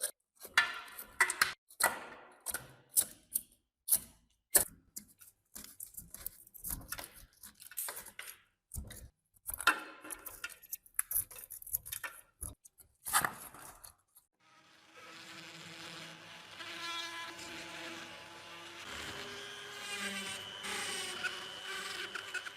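Metal parts and hand tools clinking and knocking in quick, irregular strikes. About two-thirds of the way through, a steady buzzing whine from a small motor-driven tool takes over.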